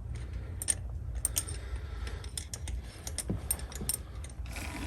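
Scattered small metallic clicks and taps, a few in quick clusters, as engine parts around the push rods and cylinder head of a 250cc quad bike engine are handled, over a steady low hum.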